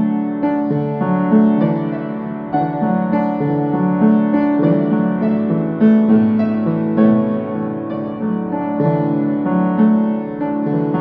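Piano playing a gentle gospel hymn tune in chords, with a new note or chord struck every half second to a second.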